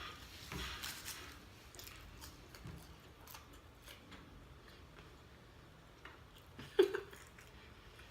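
A person eating fast food: soft chewing and small clicks and rustles of handling the food and its packaging, with one short, sharper sound about seven seconds in.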